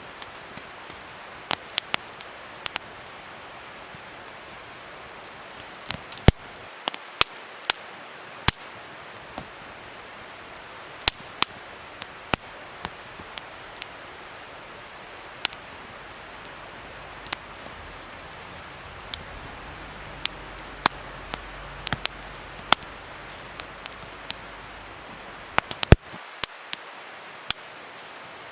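Wood fire crackling: irregular sharp pops and snaps over a steady soft hiss of burning.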